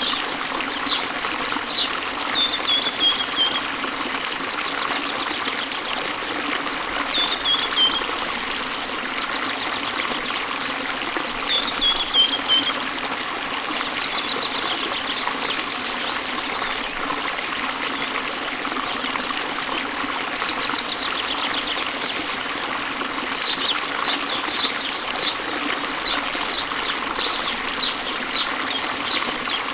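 Steady rush of flowing water. Over it a bird sings short falling phrases three times in the first half, and a run of quick chirps comes near the end.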